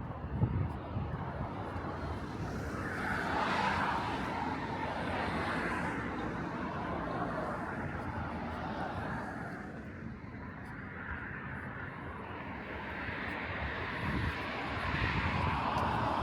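Vehicles passing on a residential street: the tyre and engine noise swells and fades twice, once a few seconds in and again near the end, over a steady low rumble.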